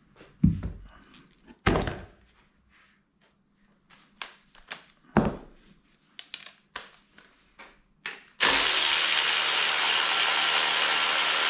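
Metal tools and engine parts knocking and clanking as they are handled during an engine strip-down, with a few sharp louder clanks. About eight seconds in, a loud steady hiss starts abruptly, like a compressed-air tool running.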